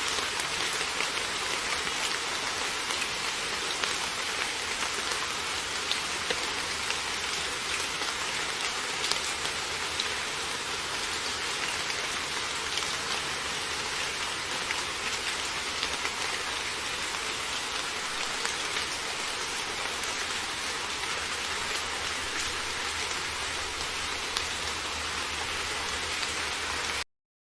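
Heavy rain falling steadily on a surface: a dense hiss with scattered sharper drop hits. It cuts off abruptly near the end.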